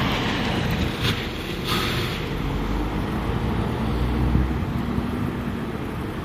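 Wind buffeting the microphone, a steady loud rush with a low rumble and a couple of brief louder gusts about a second in.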